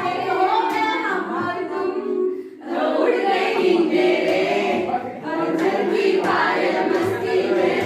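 A group of voices singing a song together, unaccompanied, with a short break about two and a half seconds in.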